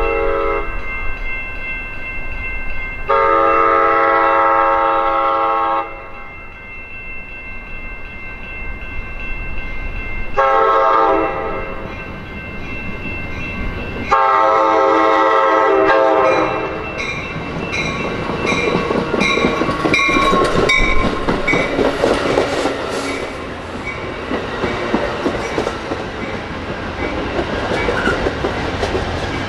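Amtrak California passenger train's multi-tone horn sounding the grade-crossing signal as it approaches: the tail of one blast, then a long blast, a short blast and a final long blast. The train then passes close by with steady wheel-and-rail noise and clickety-clack over the rail joints.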